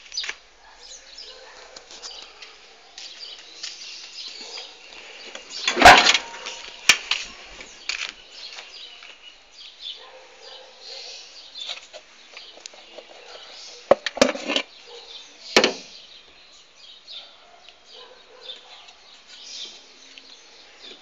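Birds chirping in the background, broken by a few sharp knocks: one loud knock about six seconds in and a cluster of two or three more a little past the middle.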